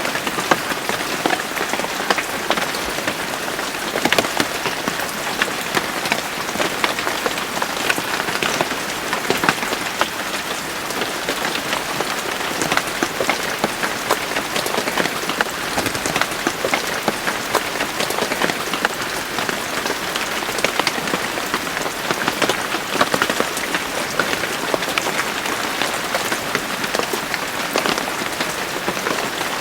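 Steady rain falling on a surface, a constant hiss dotted with many individual drop ticks.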